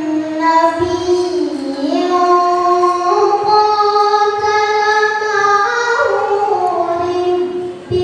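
One voice reciting the Quran in a high, melodious register, holding long notes that turn slowly between pitches, with a short breath pause near the end.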